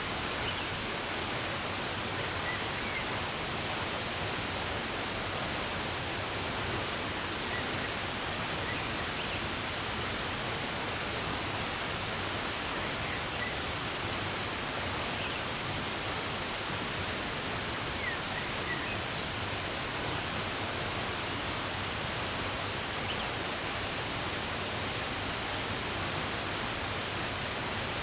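Running water rushing steadily, with occasional faint bird chirps.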